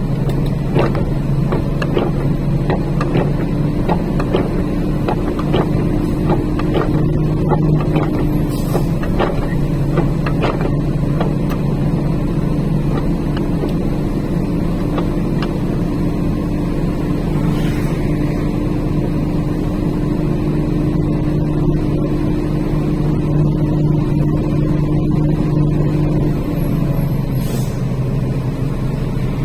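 Heavy truck's diesel engine running steadily on a downhill grade, heard inside the cab, its hum dropping lower about 27 seconds in. Scattered short ticks in the first dozen seconds and a few single clicks later.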